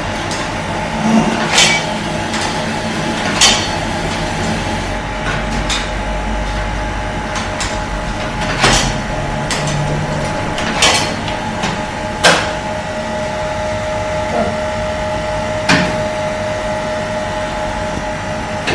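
Laundromat machines running: a steady mechanical hum with a few sharp knocks and clicks scattered through.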